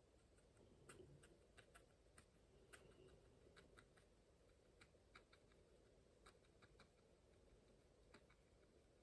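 Near silence: quiet room tone with a scatter of faint, irregularly spaced small clicks.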